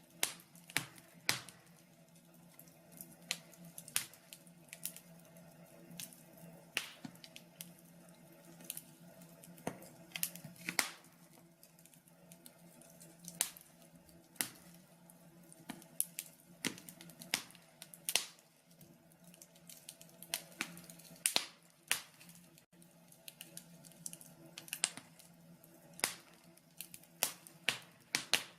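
Wood burning in a log burner, crackling with irregular sharp pops and snaps, a few of them loud, every second or so.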